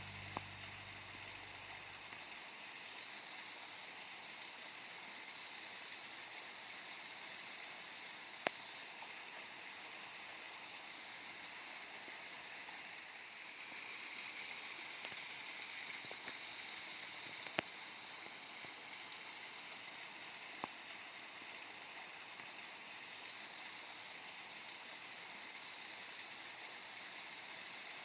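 Waterfall water rushing in a steady, even hiss, with a few sharp single clicks scattered through it.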